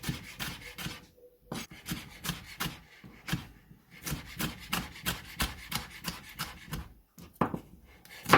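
A kitchen knife slicing bell pepper into strips on a chopping board: quick, even cuts, about three a second, each ending in a knock of the blade on the board, with a few short pauses.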